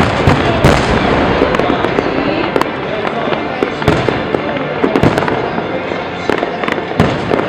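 Fireworks display going off: a continuous dense crackling, with sharp bangs a few times, about a second in, near the middle and near the end.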